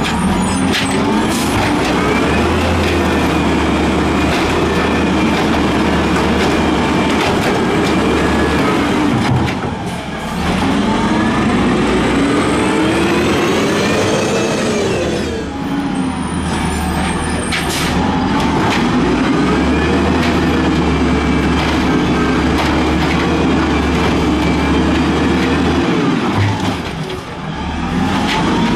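Peterbilt 320 garbage truck's diesel engine revved hard again and again, its pitch climbing and falling back in long sweeps of several seconds each, the highest climb about halfway through.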